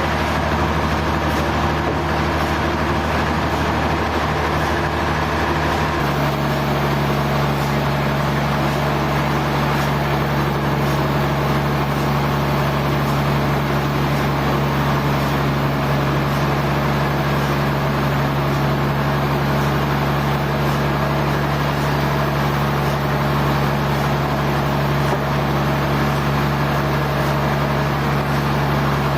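Sawmill machinery running with a steady, loud mechanical drone. Its tone changes abruptly about six seconds in, then holds steady again.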